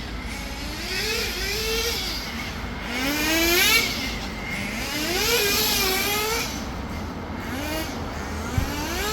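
Small nitro glow engine of an RC touring car running at high revs, its pitch rising and falling several times as the car accelerates and slows through the track.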